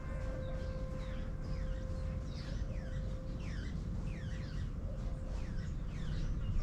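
Several birds chirping, with many short, quick, curved calls repeating throughout over a steady low rumble of background noise. A steady pitched tone that began just before slowly fades away beneath them.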